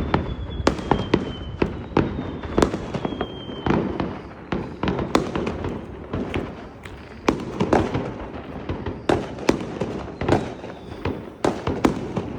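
Fireworks going off: many sharp bangs at irregular intervals over a steady background crackle. A high whistle slides down in pitch during the first few seconds.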